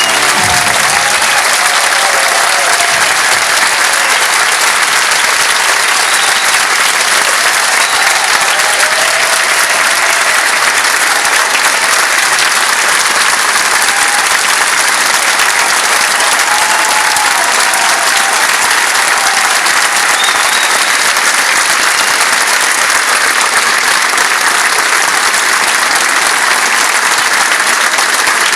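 Concert audience applauding steadily at the end of a song, a dense even clapping that holds at the same level throughout.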